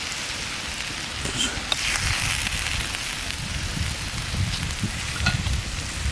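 Food sizzling in a pan over a campfire, a steady frying hiss that swells briefly about two seconds in.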